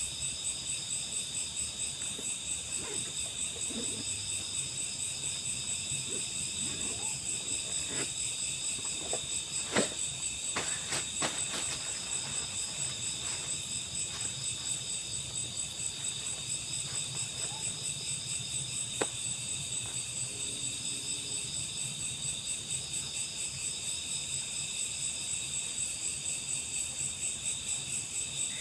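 Chorus of insects trilling steadily at several high pitches, with a few sharp clicks or knocks, the loudest about a third of the way in and again about two-thirds in.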